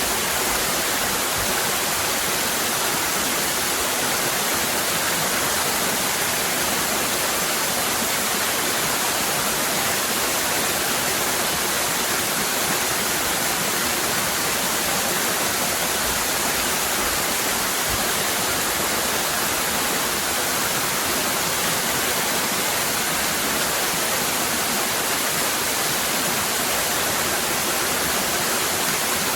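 Waterfall cascading: a steady, even rush of falling water with a bright hiss.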